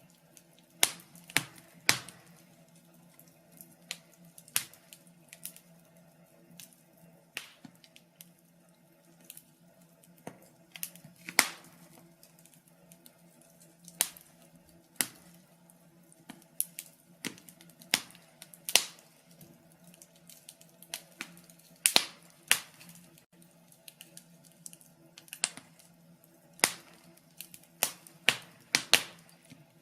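Wood fire crackling, with irregular sharp pops and snaps, several of them loud, over a faint steady low background.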